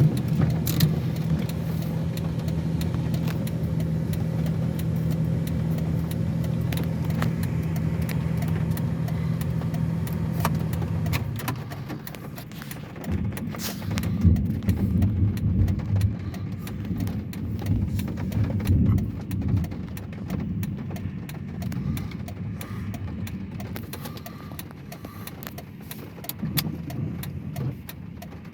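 Car running, heard from inside: a steady low engine and road hum for about the first eleven seconds, then the hum drops away into uneven rumbling with scattered rattles and clicks, growing quieter toward the end.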